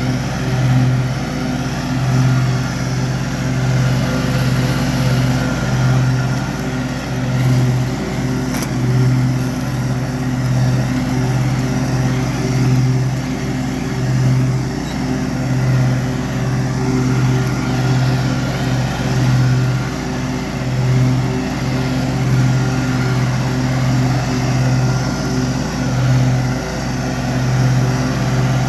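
Gravely 48 walk-behind lawn mower's engine running steadily, its note swelling and dipping slightly about once a second.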